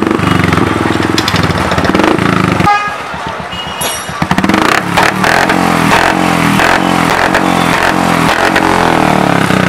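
Royal Enfield Bullet's single-cylinder engine running through an aftermarket sports exhaust: idling, dipping briefly about three seconds in, then revved in repeated throttle blips about twice a second.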